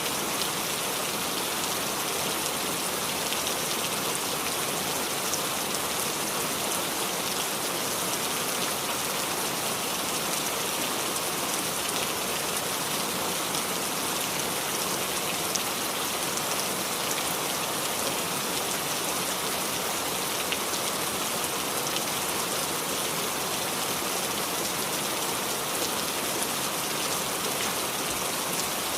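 Steady rain with many small drops pattering on leaves of a small tree.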